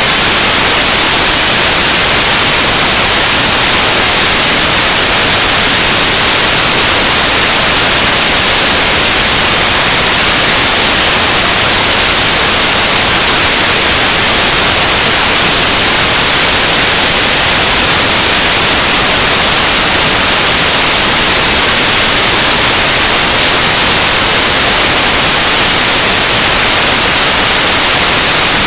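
Harsh noise music: a loud, unbroken wall of static hiss, brightest in the treble, with no rhythm, pitch or change.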